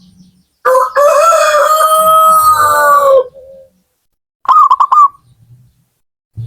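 A rooster crows once, one long call of about two and a half seconds. About a second and a half after it ends, a zebra dove gives a short burst of quick cooing notes.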